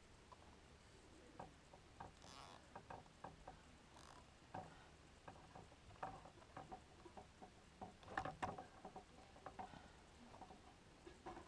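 Faint, irregular small plastic clicks and taps from zip ties being fitted and fastened onto a quadcopter's landing gear, with a brief rasp about two seconds in and a denser burst of clicking around eight seconds in.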